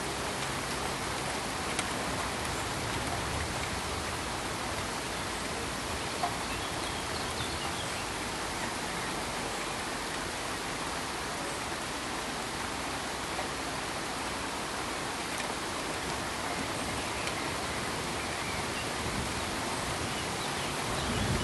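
Steady, even hiss of rain falling, with a couple of faint ticks in the first few seconds.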